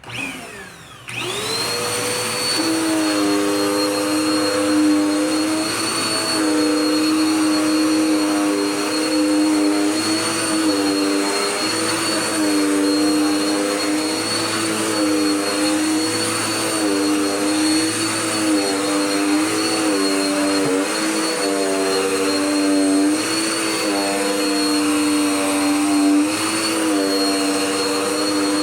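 Dirt Devil Power Max bagless vacuum cleaner switched on, its motor spinning up with a rising whine about a second in. It then runs steadily with a high whine, its pitch dipping briefly and recovering every second or two.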